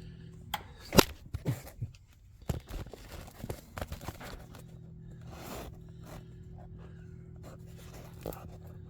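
Hand work with tools and parts: a scatter of sharp knocks and clicks, the loudest about a second in, over a steady low hum that drops away for a few seconds in the middle.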